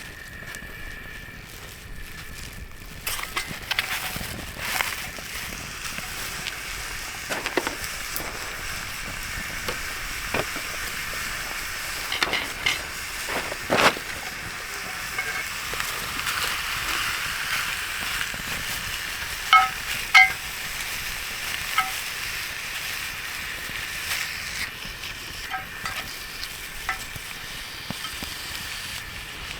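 Food sizzling in a frying pan, with occasional short clinks and scrapes of a utensil against the pan.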